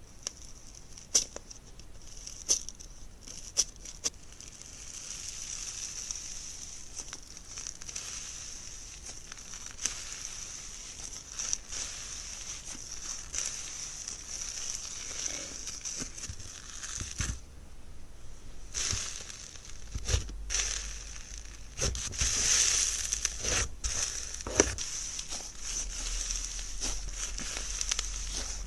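Slime being squeezed and pressed close to the microphone: a steady wet crackling with many small pops and sharp clicks, three loud snaps in the first few seconds.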